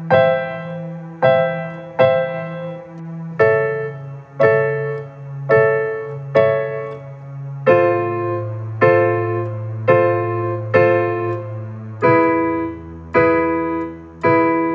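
Piano introduction to a song: chords struck about once a second, each ringing and fading, over held bass notes that change every few seconds.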